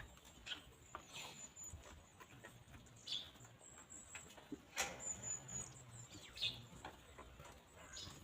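Free-range chickens pecking and scratching at grass: faint, scattered taps and rustles, a few sharper ones, with thin, high chirps of small birds now and then.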